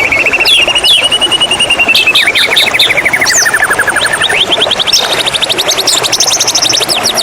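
White-rumped shama (murai batu) singing: long rattling trills of rapid repeated notes, the first sliding down in pitch and back up, the second higher, broken by short sharp whistles. A steady hiss of running water lies underneath.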